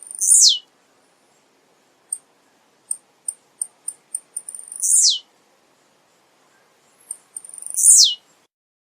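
Male blue-black grassquit (tiziu) singing three times: each song a run of quick, high ticks that speed up and run into a loud buzzy note sweeping downward.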